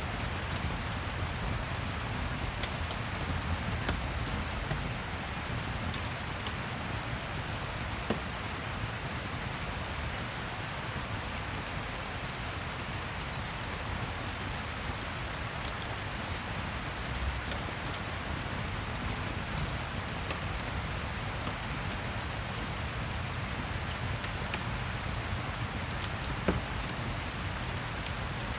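Steady rain ambience mixed with a fireplace, a few sharp crackles standing out now and then, the loudest near the end.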